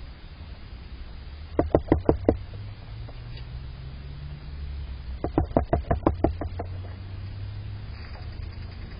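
Red-bellied woodpecker pecking at suet and peanuts: two quick bursts of sharp knocks, the first about a second and a half in and a longer one about five seconds in.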